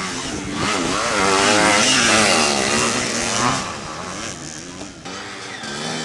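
Motocross dirt bikes revving on the track, one passing close and loudest from about one to three and a half seconds in, its engine pitch rising and falling with throttle and gear changes, then fading.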